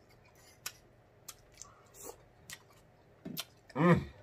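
A man chewing a mouthful of mixed vegetables with closed lips, giving a handful of sharp, wet mouth clicks spread through, then a short hummed "mmm" of enjoyment near the end.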